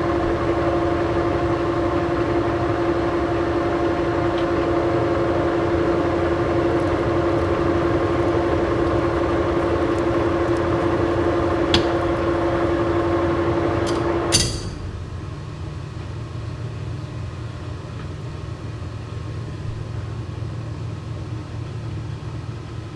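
Monarch engine lathe running with a steady gear whine while a 5/8-11 thread is brought to size. It is shut down with a sharp clack about fourteen seconds in, leaving a lower, quieter hum.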